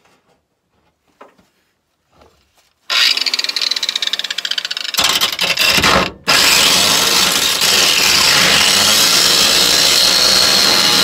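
Power grinder running and grinding against metal, starting about three seconds in, dropping out for a moment about six seconds in, then grinding steadily with a high whine.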